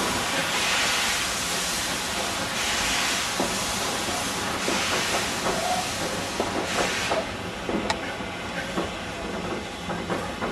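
LNWR class G2 'Super D' 0-8-0 steam locomotive working slowly: four long hissing steam beats about two seconds apart. In the second half come a run of sharp clicks and clanks as it rolls over the track.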